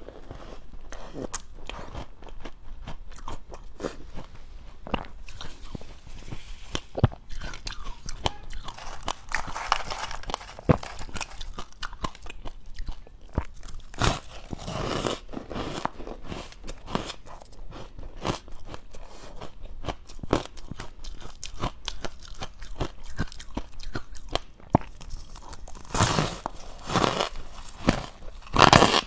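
Close-up biting and chewing of dry, powdery freezer-frost ice: a dense run of crisp crunches and crackles, with heavier bursts of crunching now and then.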